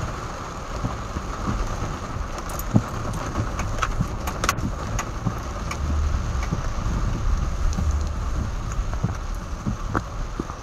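Heavy rain on a car's roof and windshield, heard from inside the car: a steady hiss with scattered sharp ticks of single drops striking. A low rumble swells for a couple of seconds about six seconds in.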